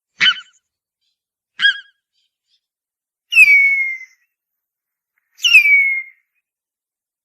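Harpy eagle calling: two short, sharp calls, then two longer whistled wails, each sliding down in pitch, about two seconds apart.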